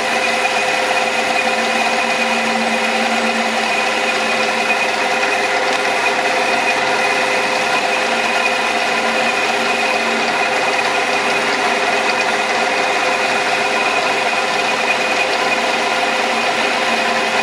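Small metal lathe running steadily under power, its motor and gear train giving an even whine of several tones over a rough mechanical hum, while the cutting tool takes a taper cut on the workpiece.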